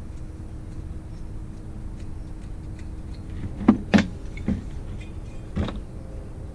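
Four sharp knocks of tools and metal engine parts being handled and set down; the two loudest come close together about four seconds in, over a low steady hum.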